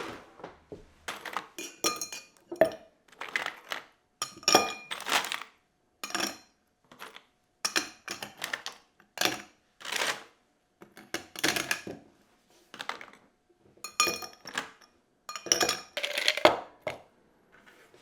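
Dishes and utensils being handled: a string of separate clinks and clatters, roughly one a second, some ringing briefly.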